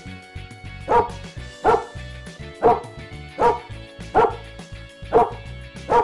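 A dog barking in short single barks, about seven of them, a little more than one a second, starting about a second in, over background music.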